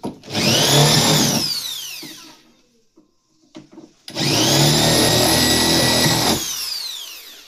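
A handheld electric power tool run twice: the motor spins up to a steady high whine, runs about a second the first time and about two seconds the second time, then winds down with a falling pitch.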